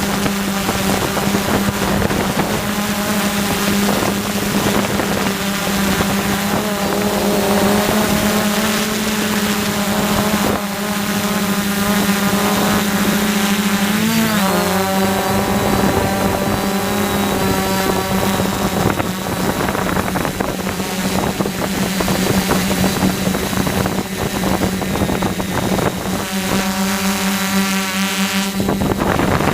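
DJI F450 quadcopter's brushless motors and propellers buzzing steadily in flight, with wind on the microphone. The pitch wavers briefly about halfway through, and the buzz grows stronger near the end.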